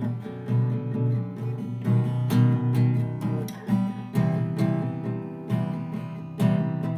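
Instrumental break in a song: strummed acoustic guitar chords with regular strokes, and no vocals.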